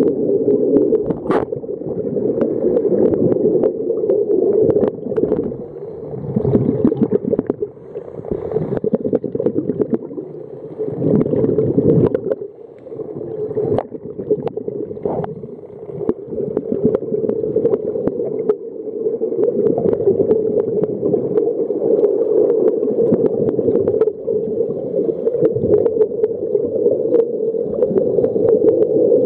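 Underwater noise picked up while snorkelling: a steady low hum with water gurgling and many scattered short clicks, swelling and easing in waves.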